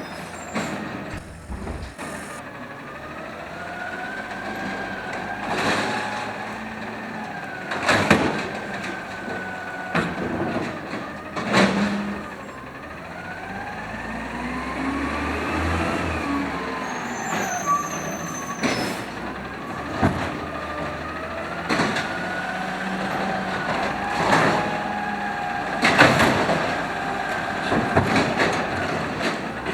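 Automated side loader garbage truck working its arm: the engine revs up and down with a rising and falling hydraulic whine. A series of sharp bangs comes through it, about eight in all, as the cart is slammed against the hopper.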